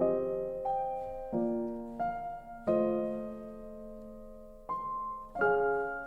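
Slow, gentle solo piano music: single notes and soft chords struck about once a second and left to ring and fade, with one longer held chord in the middle.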